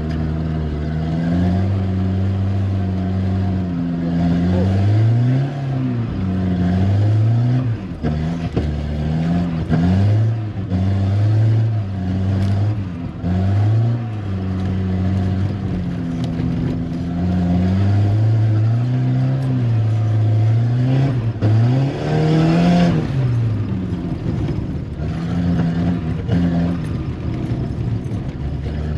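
Volvo 740 Turbo's turbocharged four-cylinder engine revving hard on a rally run, its pitch rising and falling again and again every second or two as the throttle is worked and lifted. There is a brief rush of noise about three-quarters of the way through.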